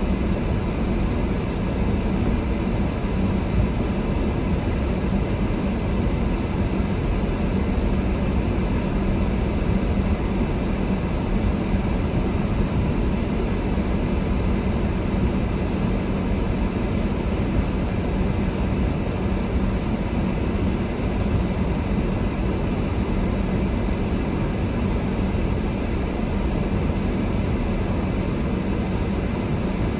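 Car driving on a snow-covered road: a steady low rumble of engine and tyres that holds even throughout.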